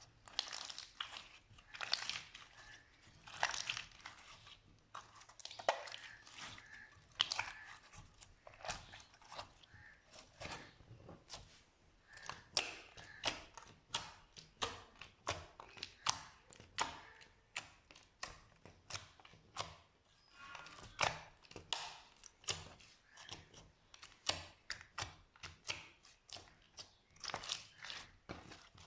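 Slime being squeezed and poked by hand, making irregular sticky pops and crackles, two or three a second.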